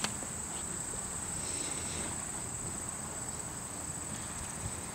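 Crickets chirping in one steady, high-pitched trill.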